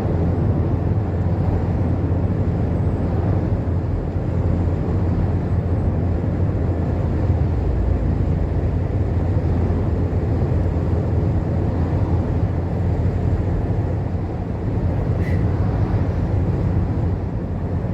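Steady, even road and engine drone of a vehicle driving along a highway, low-pitched and unbroken, with one small click about fifteen seconds in.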